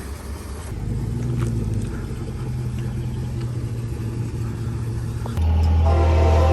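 Low, steady rumble of a passing diesel locomotive. About five seconds in it turns abruptly louder, and near the end the locomotive's horn starts to blow a steady chord.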